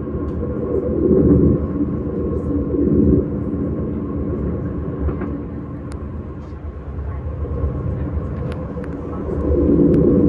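S-Bahn train running on the rails: a steady low rumble with a faint steady tone above it and a few light clicks.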